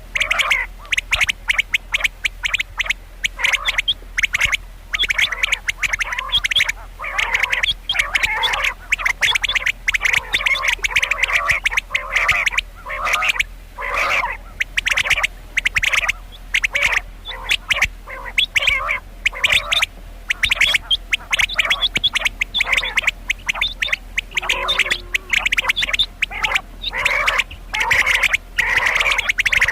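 Female common quail calling: short, harsh calls repeated rapidly in clusters, with brief pauses between the runs.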